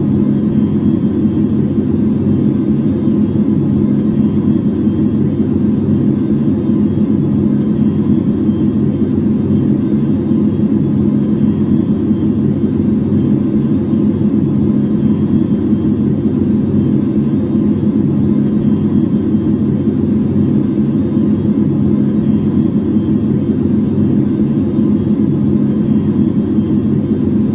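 A loud, steady low rumble with a constant hum in it, unchanging throughout.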